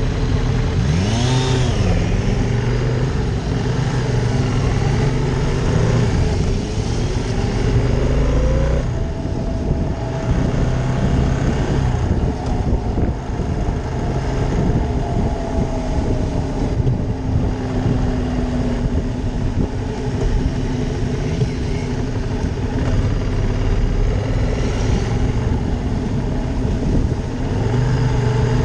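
Ducati Monster 620's air-cooled V-twin engine running while riding, its note rising and falling with the throttle, with a quick swoop in pitch about a second in.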